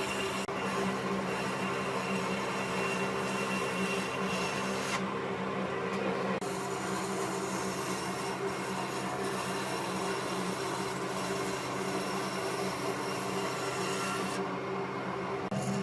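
A woodworking power tool running steadily with a motor hum under a continuous scratchy noise of the tool working the wood; the sound shifts abruptly a few times.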